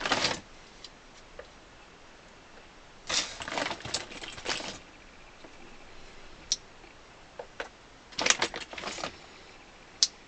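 Small clamps being handled and fitted onto a glued celluloid edge: two spells of quick clicking and rattling, with a few single clicks between.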